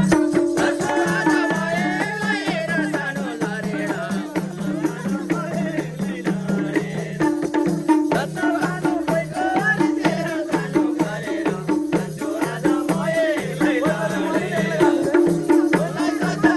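Instrumental Nepali dohori folk music: a steady, repeating low rhythmic pattern with light percussion strokes and a wavering melody above.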